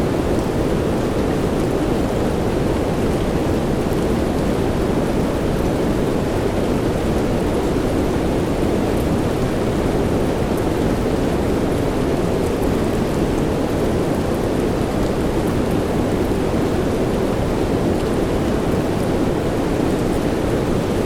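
Steady soft rain: an even, low hiss with faint drop ticks, unchanging throughout.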